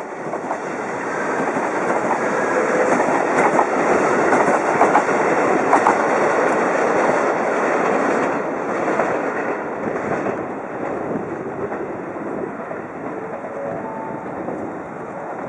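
Freight train hauled by a DD51 diesel-hydraulic locomotive passing close by. The sound builds to its loudest about four to six seconds in, with sharp clicks of wheels over rail joints, then settles into the steady rolling clatter of the wagons going past.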